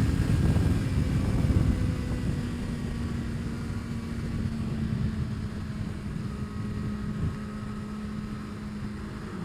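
2025 Kawasaki ZX-6R's inline-four engine running while riding, one steady note that sags slightly in pitch, over a heavy low rumble that is loudest for the first couple of seconds.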